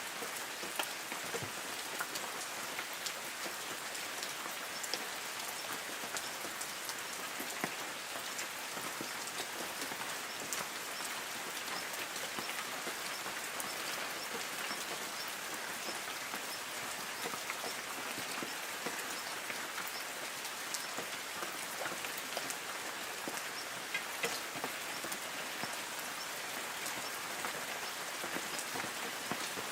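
Light rain falling on trees: a steady patter of many small drops on leaves.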